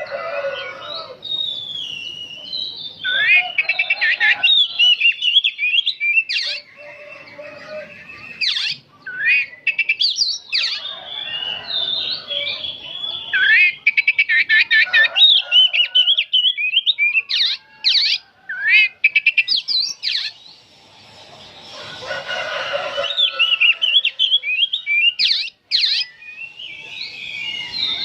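Oriental magpie-robin singing: a long run of rapid, varied phrases of chirps, trills and whistles, with only brief pauses between them.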